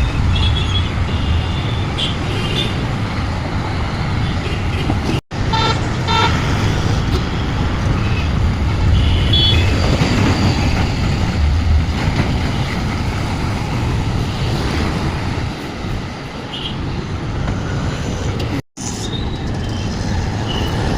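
Busy road traffic heard from a moving bicycle: a steady low rumble of passing cars, trucks and motorbikes, with short vehicle horn toots several times. The sound cuts out completely for an instant twice.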